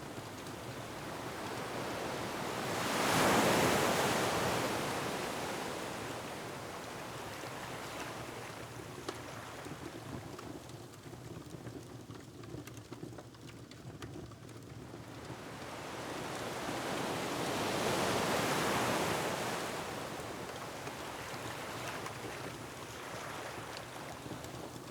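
Ocean waves breaking on a rocky shore, two big swells of surf that build and fade over a few seconds each, about three and eighteen seconds in, over a steady wash of wind and water. Faint crackling of a wood fire ticks along underneath.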